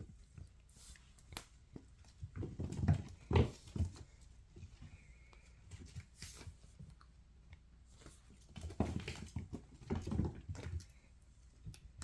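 Bengal kittens playing: irregular soft thumps, taps and scuffling, coming in two busy bursts with quieter stretches between.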